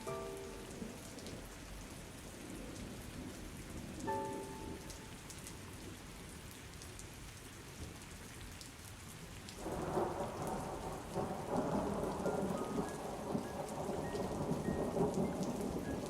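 Steady rain with a sudden rumble of thunder about ten seconds in that becomes the loudest sound and carries on. A few soft notes of music sound near the start and again about four seconds in, with faint notes near the end.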